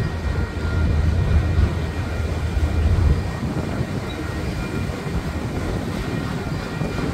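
Freight train of Union Pacific autorack cars rolling past: a steady rumble of wheels on the rails. It is heaviest in the bass for the first three seconds or so, then evens out.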